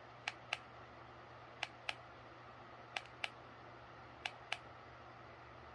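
Plastic buttons on a ceiling fan's remote control pressed four times, each press a double click (press and release), about every second and a half, stepping the LED light through its colours. A faint steady low hum lies underneath.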